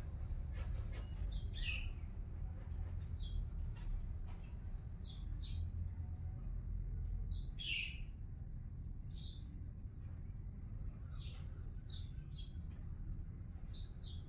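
Small birds chirping: short high chirps scattered throughout, several sliding downward in pitch, over a low steady background rumble.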